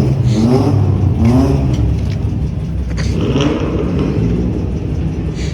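A car engine revved in three short rising blips, about a second in, near a second and a half, and a little past three seconds, over a steady low idle rumble.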